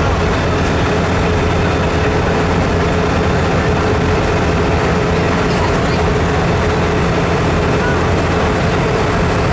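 Steady low engine drone and road noise of a heavy vehicle driving at constant speed, with a faint high whine that falls slightly.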